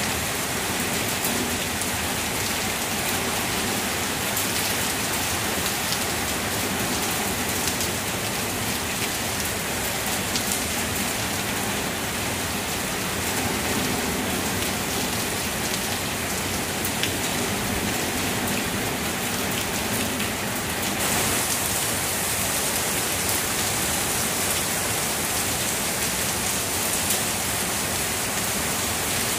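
Heavy rain falling steadily on tree leaves: an even hiss with scattered drop ticks. The hiss turns brighter about two-thirds of the way through.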